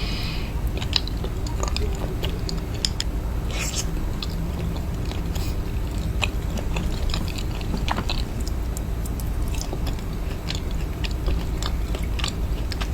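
Close-miked chewing and biting of food, with many short wet mouth clicks scattered through. Under it runs a steady low hum of loud background noise.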